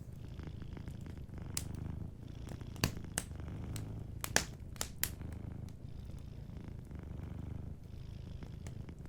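Domestic cat purring steadily in long breaths, with a wood fire crackling over it: a handful of sharp pops in the middle seconds.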